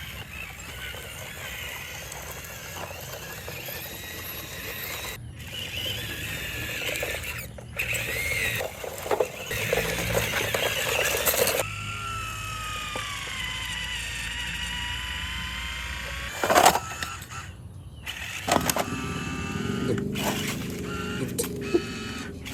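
Radio-controlled scale dump truck driving over rough ground: its motor and gearing whine, dipping and rising in pitch, with clatter and a few sharp knocks, in several short clips cut together.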